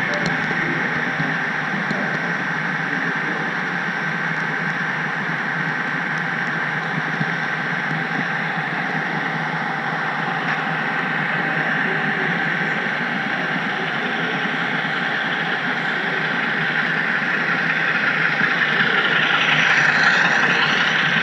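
HO scale model train running along the layout's track: a steady mechanical running noise with a thin steady whine through it, growing louder and brighter near the end.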